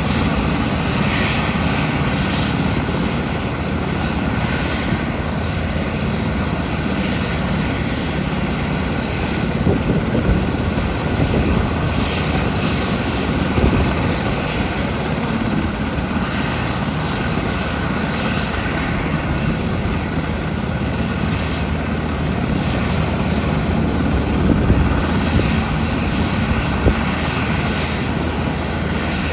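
JMSDF SH-60K helicopter's twin turboshaft engines and rotor running at a steady level, a continuous heavy whirring with no change in pitch.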